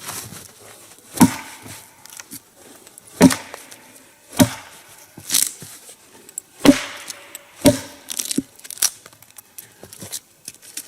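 An axe chopping a notch into a log, about seven separate blows roughly a second apart. The strokes cut a groove near the log's end so that it rests on two points and cannot roll.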